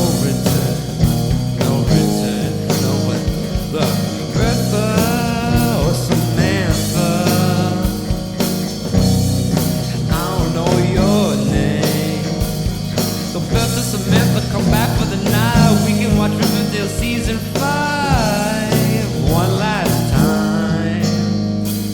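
A rock band playing a psychedelic rock passage, with guitar over steady drums and bass.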